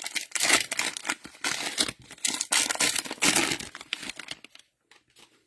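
Trading card pack wrapper crinkling and tearing as the pack is opened by hand, in irregular bursts that stop about four and a half seconds in.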